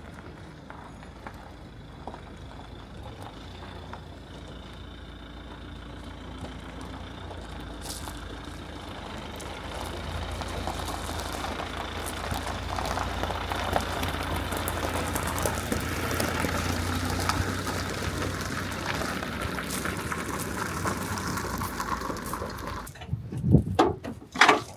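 A heavy vehicle's engine running steadily, growing louder through the first half, then cutting off abruptly near the end.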